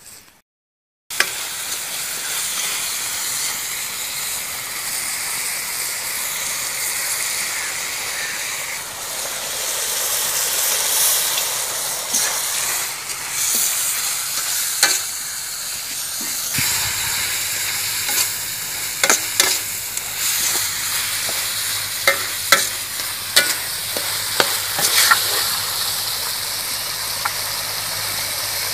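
Chicken and onions sizzling in a large metal wok over a wood fire, stirred with a metal ladle that scrapes and knocks against the pan. The sizzle starts about a second in, and the sharp ladle clicks come more often in the second half.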